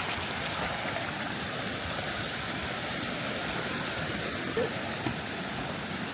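Creek water rushing, a steady even rush with no let-up.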